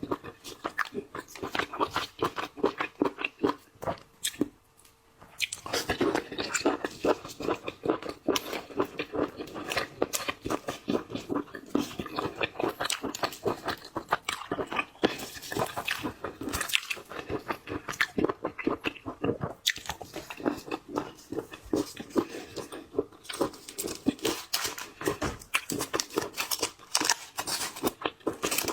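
Close-miked eating of seafood: continual biting, crunching and chewing with wet mouth clicks, pausing briefly about four seconds in.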